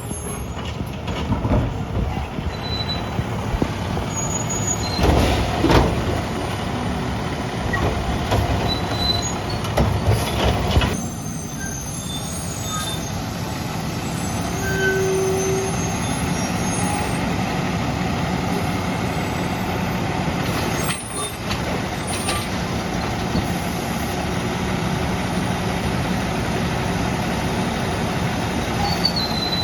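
Peterbilt side-loading garbage truck with a Labrie Automizer body running steadily, with a few loud knocks and clanks about five and ten seconds in.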